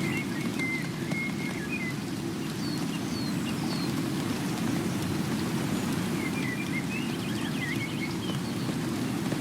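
Steady rain falling, with a small bird chirping in short phrases over it in the first couple of seconds and again about two-thirds of the way through.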